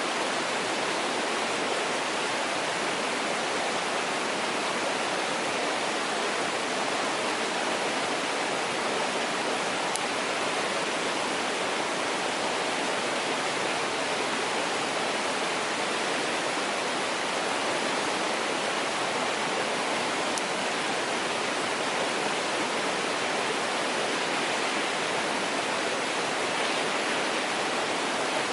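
Mountain stream rushing steadily over rocks, with a couple of faint pops from a wood campfire.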